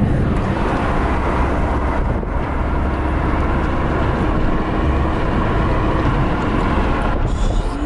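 Steady road and tyre noise with engine drone from a car driving along, heard from inside the moving car.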